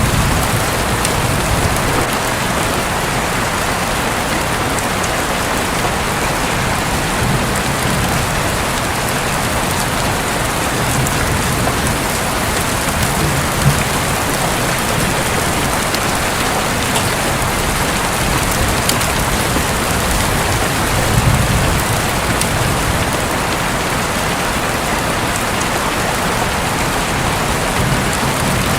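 Steady heavy rain falling on a roof, a dense, even patter.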